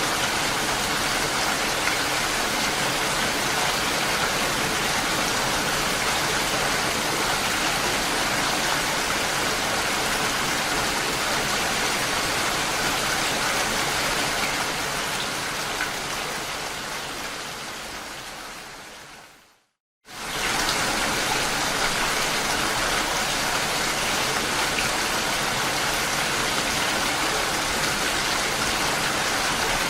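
Steady rain, an even hiss with no distinct drops or rhythm. About two-thirds of the way through it fades out over several seconds to a brief moment of silence, then cuts back in suddenly at full level, like a loop or edit point.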